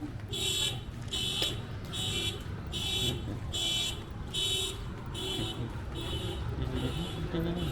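Electronic alarm beeping about twice a second in a shrill, high tone, growing fainter in the second half, over a steady low rumble of street traffic.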